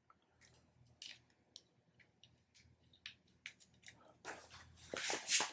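Scattered small clicks and taps of metal parts and tools being handled while fitting a motorcycle triple clamp, then a louder scraping rustle about four seconds in.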